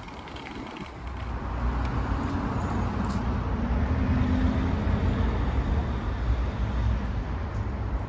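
Street traffic: motor vehicles rumbling past in a steady low roar that swells about a second in.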